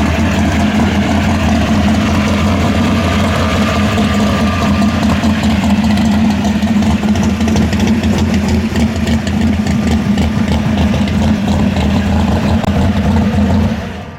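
Muscle car V8 engine running at a steady, loud idle with no revving, cutting off suddenly near the end.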